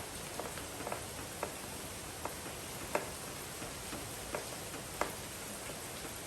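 Steady rain hiss, with irregular light ticks about once a second.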